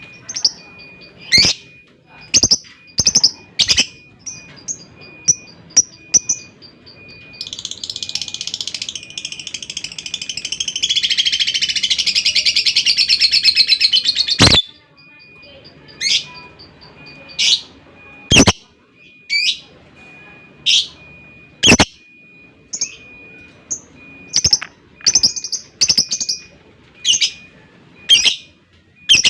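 Lovebird calling: short, sharp chirps repeated every second or so, broken by one long unbroken chattering trill (ngekek) of about seven seconds that builds in loudness and stops abruptly, after which the single chirps resume.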